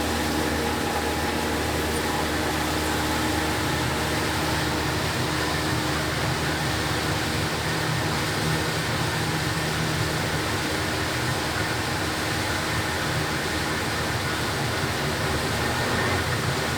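Motor of a small passenger boat running steadily: a low, even hum under a constant rush of noise.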